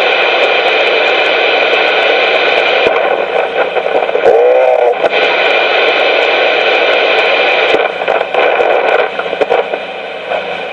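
CB radio transmission coming through a receiver's speaker: a loud keyed carrier full of noise, snap, crackly and poppy, with a brief warbling tone about four seconds in and a drop in level near the end.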